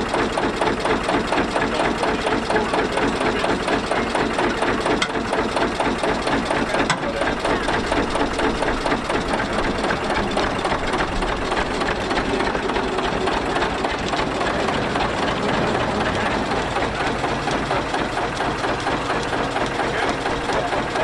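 Ruston & Hornsby narrow-gauge diesel locomotive's engine running with a steady, rapid, even beat.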